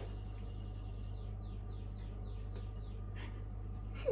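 A bird chirping: a quick run of about seven short falling chirps starting about a second in, over a steady low hum.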